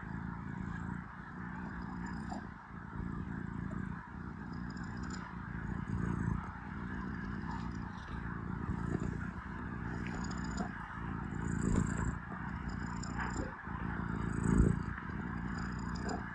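Domestic cat purring close up while kneading, a continuous low rumble that swells and eases with each breath, about once every second or two.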